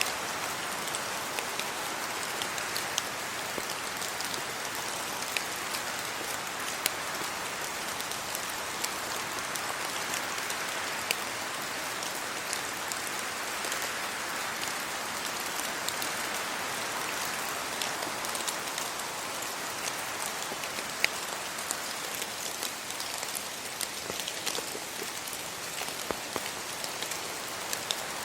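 Steady rain falling, a continuous patter with many scattered louder single drops striking close by.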